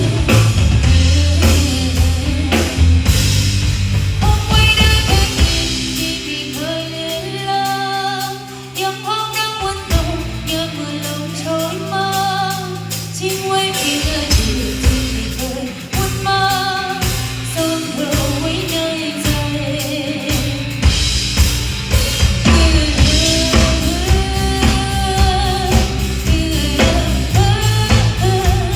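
Live band music with singing: drum kit, bass and guitar under a sung melody. The band thins out briefly around a third of the way in, then comes back fuller.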